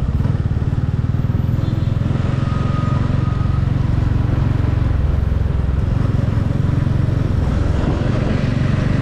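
Motorcycle engine running steadily under way, with a low, even pulse and no change in speed.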